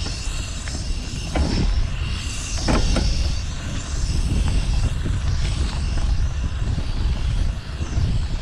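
City street traffic heard from a bicycle: a steady low rumble of passing motor vehicles, with a few short louder sounds about a second and a half in and near three seconds in.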